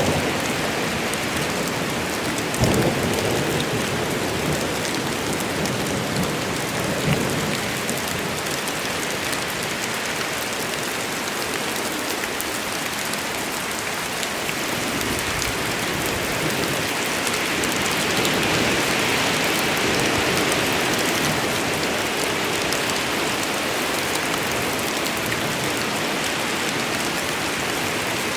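Steady heavy rain falling, with low thunder rumbles in the first few seconds. The downpour swells a little past the middle.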